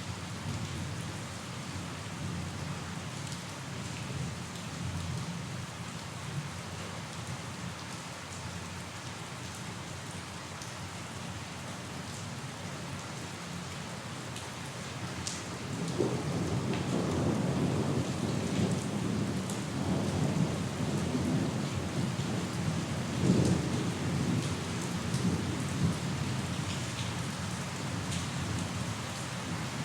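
Steady rain falling, with a low rumble of thunder setting in about halfway through and rolling on in swells to the end.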